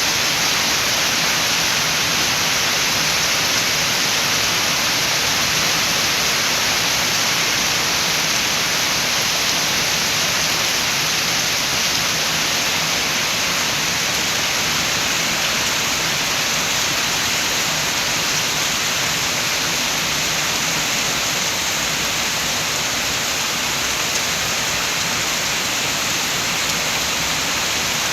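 Steady rain, heard as an even, unbroken hiss.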